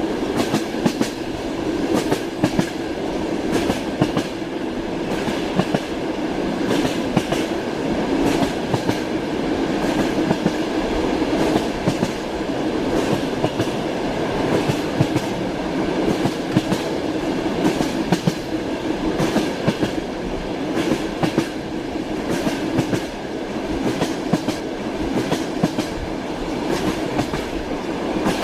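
Railway carriage running along the track: a steady rumble with the frequent clickety-clack of the wheels knocking over rail joints.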